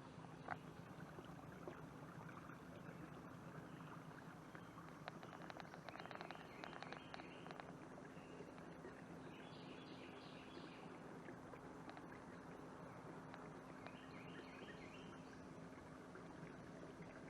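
Faint steady hum of the canoe's small electric motor, with a bird's chattering calls about five seconds in and short repeated bird calls twice later.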